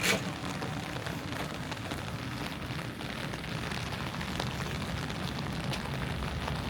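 Steady rain falling, with scattered drops ticking and a low background rumble; a single sharp knock right at the start.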